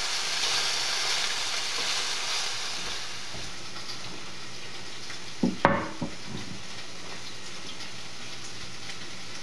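Chicken strips sizzling steadily in a stainless steel skillet, a little softer after a few seconds. About five and a half seconds in, a short clatter as a plate is set down on the counter.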